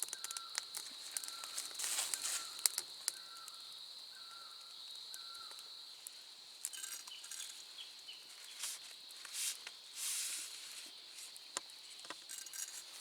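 A steady high-pitched insect drone, with a short chirp repeated about once a second during the first few seconds. Scattered clicks and a few brief rustling noises sit on top of it.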